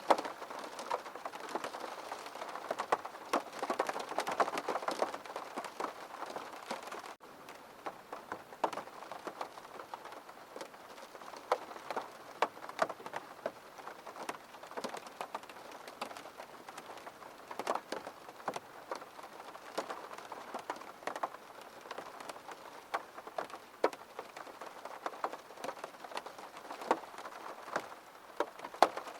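Rain falling against a window pane: a steady hiss with many separate drops tapping on the glass. It is heavier for the first several seconds, then, after a momentary break about seven seconds in, eases to a lighter, scattered patter.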